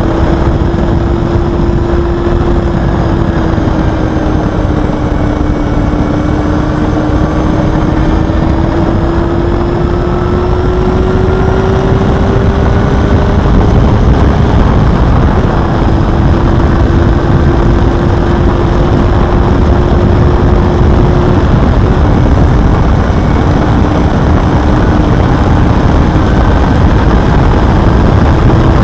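Honda Hornet 250's inline-four engine running at high, fairly steady revs under a heavy rush of wind noise. Its pitch drifts slowly up and down over the run.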